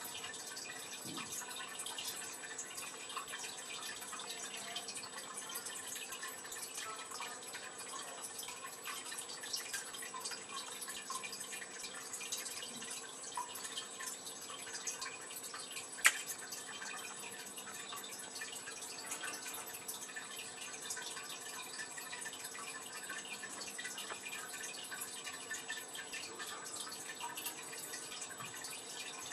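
Fire crackling in a makeshift fireplace: irregular small pops and ticks, with one sharp loud pop about 16 seconds in.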